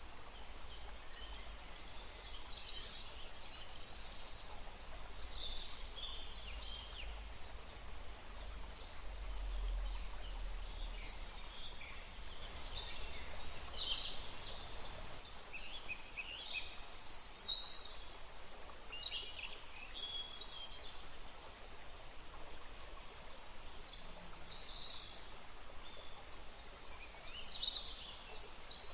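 Several songbirds chirping and singing in short, high calls over a steady outdoor rush of wind, with a low rumble that swells about a third of the way in.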